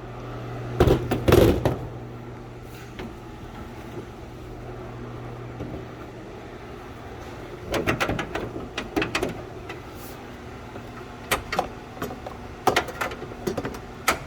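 Scattered knocks and clunks in short clusters over a steady low hum.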